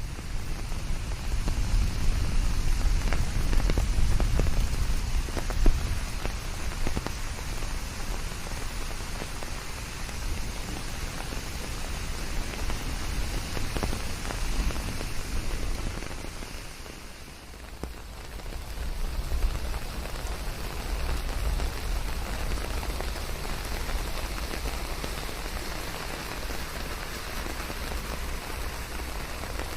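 Steady rain falling, with scattered individual drops striking close by. The sound thins and dips for a moment just past halfway, then comes back as full as before.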